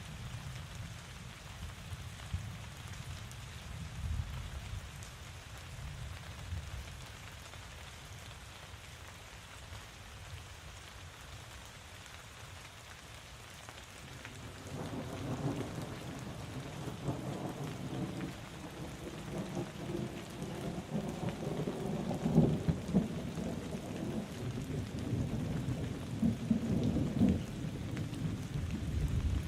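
Steady rain falling over a low rumble; about halfway through a long roll of thunder starts and keeps rumbling in swells, loudest in the last third.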